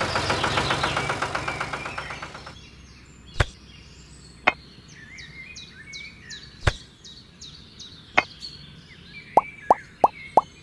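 A fast rattling buzz that stops about two and a half seconds in. Then sharp single clicks a second or two apart as tiny clay bricks are set down, ending in a quick run of short pops. Faint birdsong behind it all.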